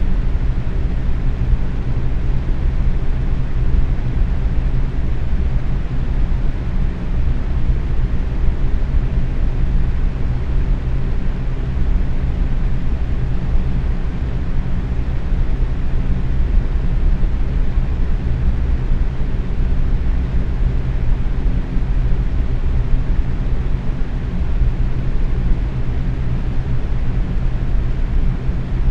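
Box fan running steadily at medium speed: an even whoosh of moving air with a low motor hum beneath it.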